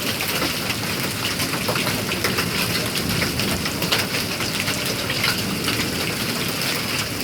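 Heavy downpour of rain and hail in a steady hiss, with many small sharp ticks of stones striking surfaces.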